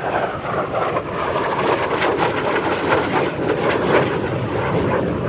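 Saab AJS 37 Viggen's Volvo RM8 afterburning turbofan running loud as the jet flies its display: a steady, dense rushing jet noise.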